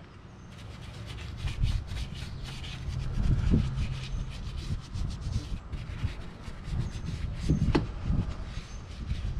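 Detailing brush scrubbing surfaces in a car's engine bay: a continuous run of short, rapid rubbing strokes.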